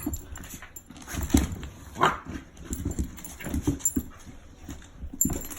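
A dog moving about and scuffling, with irregular thumps and scrapes and a short high-pitched sound about two seconds in.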